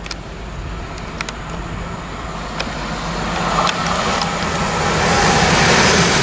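London Midland Class 350 electric multiple unit approaching, its rumble growing steadily louder until it is close alongside near the end, with a steady low hum under it. A few sharp clicks sound in the first four seconds.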